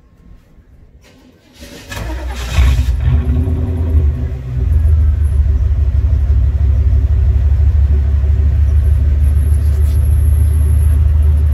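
Car engine, heard at its twin exhaust tips, starting about two seconds in: it catches with a brief flare of revs, then settles into a steady, deep, loud idle.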